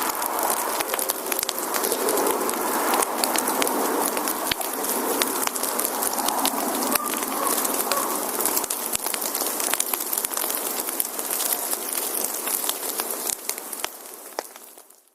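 Wood fire burning: a steady hiss with many sharp crackles and pops, fading out near the end.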